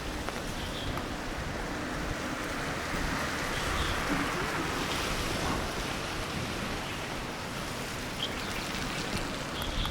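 Wet city street ambience: a steady hiss of traffic tyres on rain-soaked road, swelling and fading midway as a vehicle passes.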